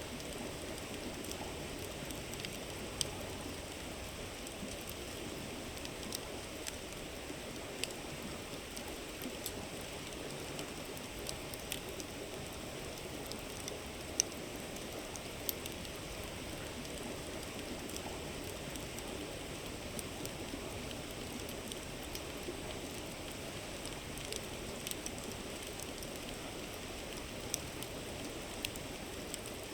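A river murmuring steadily, with the wood fire of a campfire crackling and popping irregularly over it; a few pops stand out sharply, the loudest about fourteen seconds in.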